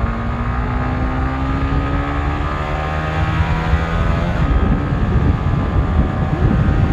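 Honda CBR150R's single-cylinder engine pulling hard in gear on a top-speed run, its pitch rising slowly just after an upshift. About halfway through, wind rush on the microphone grows and covers much of the engine.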